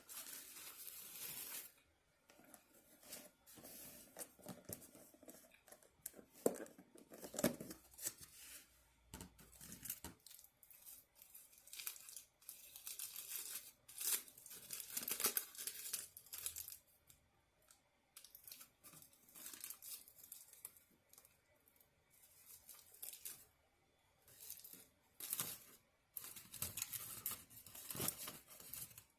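Takeout food packaging being handled: paper and plastic rustling, crinkling and tearing in irregular bursts, with short pauses between.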